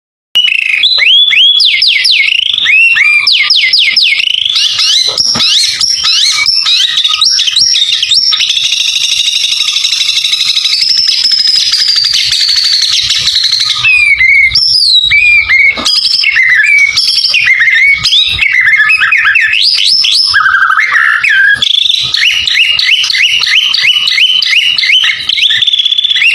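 White-rumped shama singing continuously: a rapid, varied run of whistles, fast trills and sweeping notes with a long wavering note midway, full of phrases mimicked from other birds.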